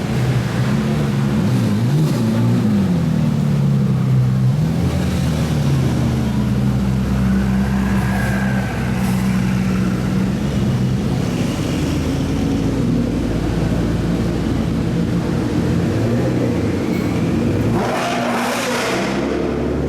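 Supercar engines running in low gear, the revs rising and falling a few times early on before holding steadier, with a louder rush of sound about eighteen seconds in as a car passes close.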